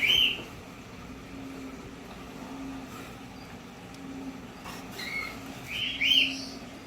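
Caged birds chirping: a quick run of short, high calls at the start and another about five seconds in, over a low hum that pulses on and off about once a second.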